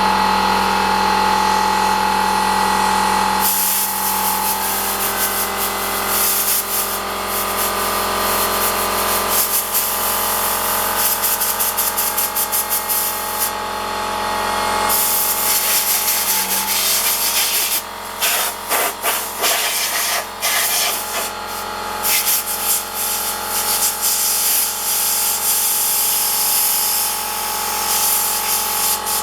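Air compressor running with a steady hum, and a compressed-air blow gun hissing loudly, from about three and a half seconds in and then in many quick short spurts, blowing out holes in a turned wooden piece.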